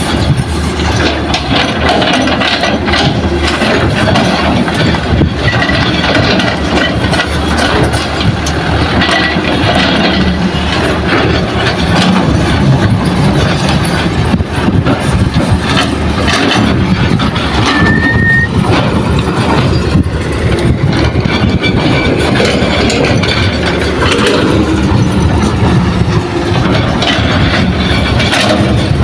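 Diesel engines of a Hitachi hydraulic excavator and a dump truck running loud and steady during soil loading, with scattered knocks and a brief high squeal about eighteen seconds in.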